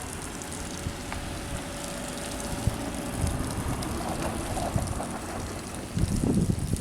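Heavy truck engine running as it works through a hill-road bend, a low steady rumble that surges louder near the end.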